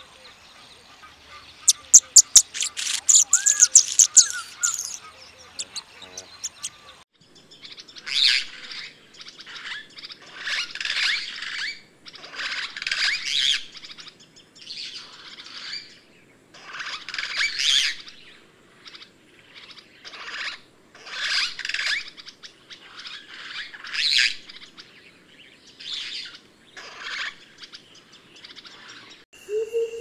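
Northern red bishop singing a rapid, high, ticking and sizzling series over the first few seconds. Then harsh, chattering bird calls come in about ten bursts of roughly a second each, every two seconds or so: long-tailed glossy starlings calling.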